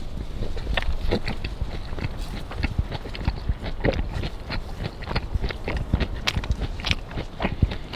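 Close-up eating sounds: a person chewing a wrap of laver, rice, pork and kimchi, with many small irregular clicks and crunches.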